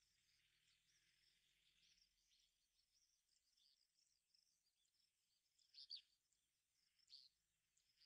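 Faint chirps and calls of birds, scattered throughout, with two louder calls about six and seven seconds in.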